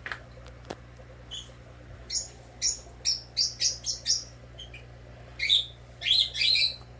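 A small bird chirping in quick series of short, high chirps, about two to four seconds in and again near the end, over a low steady hum.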